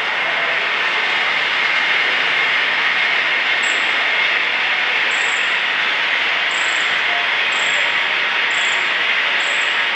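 Loud, steady test noise played from a loudspeaker, a dense hiss and rumble that swells in over the first second, with short high beeps about once a second in the second half. It is the noise source for a sound-level test of a recycled crumb-rubber sheet noise barrier.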